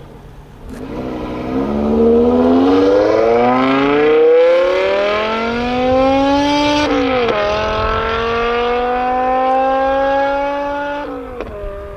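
Tuned BMW M6 V10 with an aftermarket KKS exhaust accelerating hard, its note climbing steadily in pitch. About seven seconds in it drops sharply at an upshift, climbs again through the next gear, and falls away near the end.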